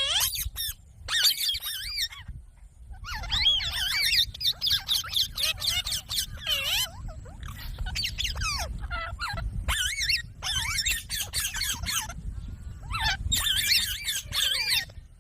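Pet green parrot chattering: rapid runs of warbling, squeaky calls and harsher squawks in bursts with short pauses, over a steady low background hum.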